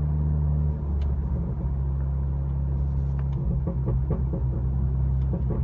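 Honda Accord exhaust with the muffler and resonator deleted, heard from inside the cabin while driving slowly. A steady low drone breaks up about a second in into an uneven burble, with a few short crackles in the second half.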